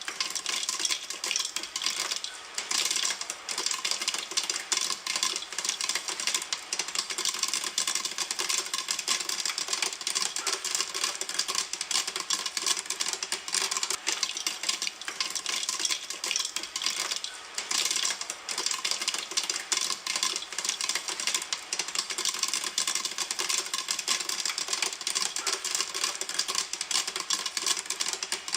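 Popcorn kernels popping in a pan, a dense, rapid, unbroken stream of sharp pops.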